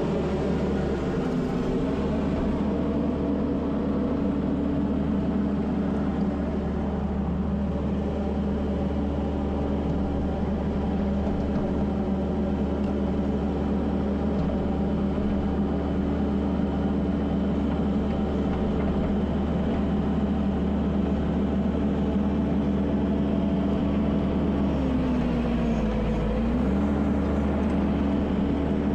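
Kubota SVL75-2 compact track loader's diesel engine running steadily at working revs. Its pitch sags briefly about a second in and again near the end, then recovers.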